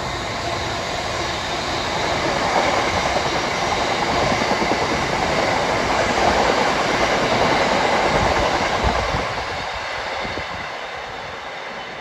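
Freight train rolling past on the line, its noise fading away from about nine seconds in.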